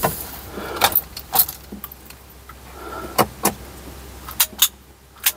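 Sharp metallic clicks and light rattling of small metal parts being handled, as wiring connectors are worked on at a dimmer switch, about eight clicks with some in quick pairs over a faint low hum.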